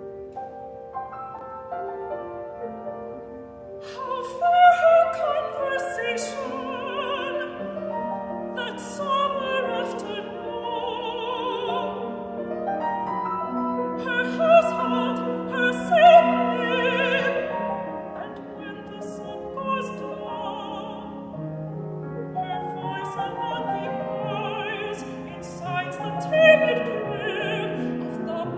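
Classical art song: piano alone for about four seconds, then a mezzo-soprano enters singing with wide vibrato over the piano accompaniment.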